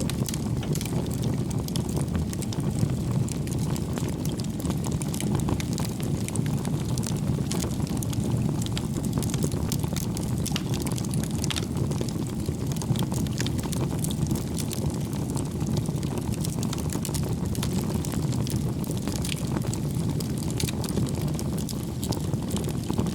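Wood fire burning in a fireplace: a steady low rumble of the flames with frequent small, irregular crackles and pops from the burning logs.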